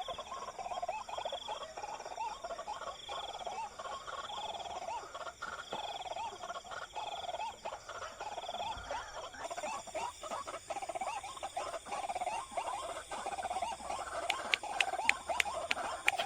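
Dense chorus of animal calls: rapid chirps repeating without a break, with a higher pulsing note about once a second for the first half. A few sharp clicks come near the end.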